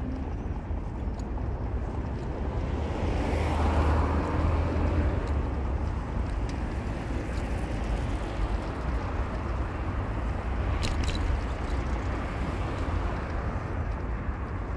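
Car driving with steady low engine rumble and road noise, which swells louder for a couple of seconds about three seconds in. Two sharp clicks come about eleven seconds in.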